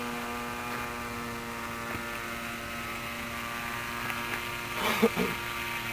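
Small radio-control seaplane engine running steadily at a constant low throttle, its mixture set too lean on the low end. A brief voice comes in about five seconds in.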